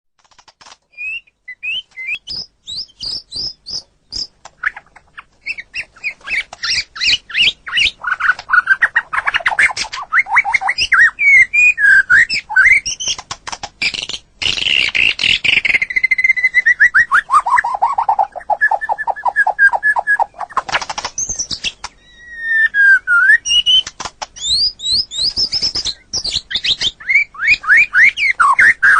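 White-rumped shama (murai batu) singing a long, varied song of rapid whistled phrases, trills and sweeping notes. It starts with scattered notes, then runs on with dense, fast phrases, including a long series of rapid repeated notes that slides downward in pitch partway through.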